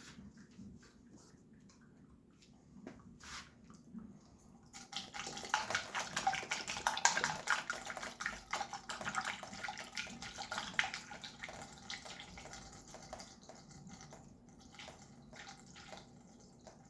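Premixed 50-50 coolant being poured into the dirt bike's cooling system. It starts about five seconds in as a fast run of gurgles and splashes, loudest for several seconds, then thins out toward the end.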